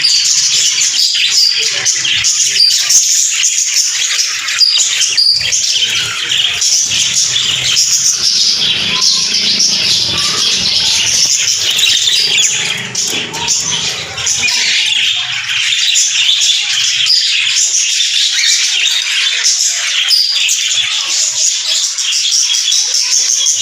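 A flock of small pet parrots chattering and chirping together, a dense continuous twittering of many birds at once.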